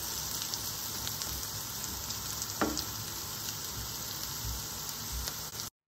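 Potato cubes frying in a little oil in a nonstick kadai, a steady sizzle, with a spatula stirring through them at first. The sound drops out for a moment just before the end.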